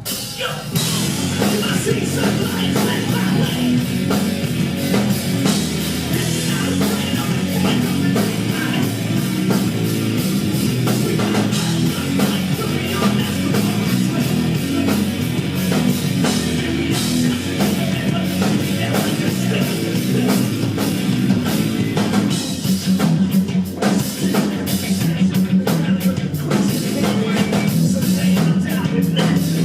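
Live hard rock band playing loud, with a heavy drum beat and distorted guitars driving the song.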